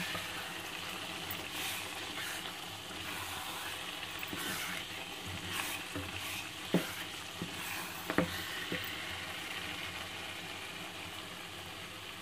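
Thick cabbage-and-mutton curry sizzling in a pot as it is fried down until the oil separates, stirred with a wooden spoon that scrapes and now and then knocks against the pot, with a few sharp knocks about two-thirds of the way through.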